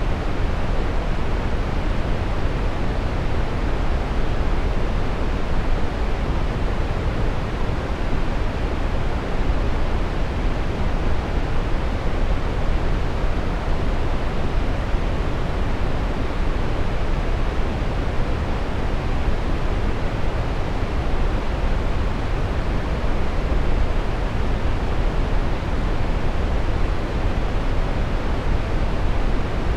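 Steady brown noise: a constant deep hiss, strongest in the bass and thinning toward the treble, without any change.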